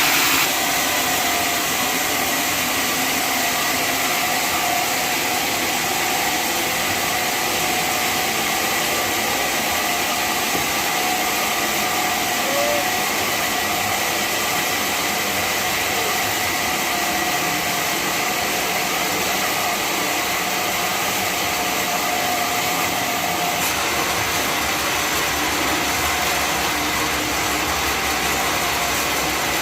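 Sawmill band saw running steadily: a continuous mechanical noise with a steady whine in it, changing slightly about 23 seconds in.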